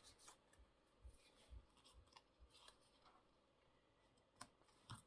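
Near silence, broken by a few faint clicks and rustles of paper cut-outs being handled on a craft table.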